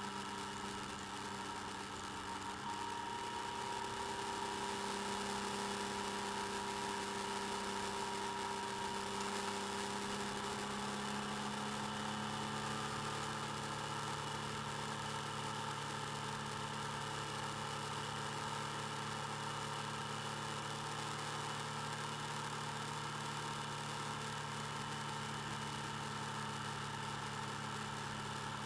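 Motorcycle engine running steadily, heard through the bike-mounted camera's mic. The engine note shifts slightly about ten seconds in.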